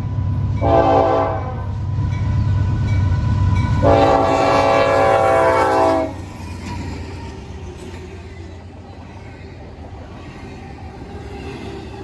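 Norfolk Southern diesel locomotive's air horn sounding a short blast and then a long one of about two seconds, over the low rumble of the locomotive, which fades after the long blast as the freight train rolls on.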